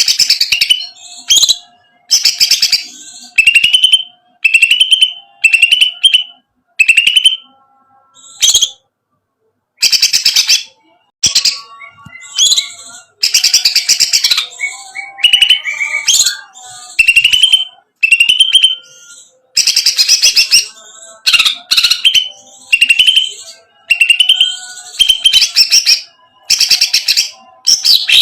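Cucak ijo (green leafbird) singing a loud, rattling trotol song. Short chattering phrases, many ending in a falling whistle, come about once a second, with a pause of a couple of seconds near the middle.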